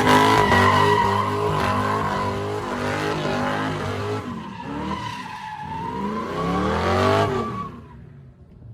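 A car engine revving up and down with tyres squealing, then stopping abruptly near the end.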